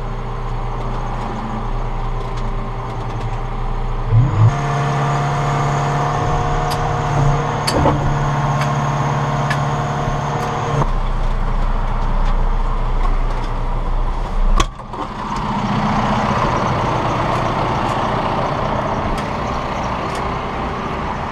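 Diesel excavator engine running, taking on a higher, strained steady pitch from about four seconds in until about eleven seconds in.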